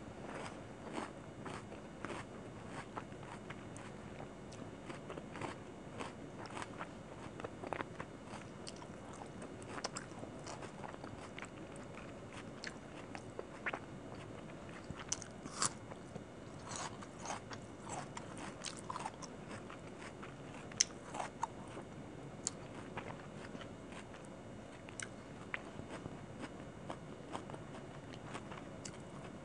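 Close-miked chewing and crunching of chicken kosha with rice and raw onion, eaten by hand, with many short sharp mouth clicks throughout.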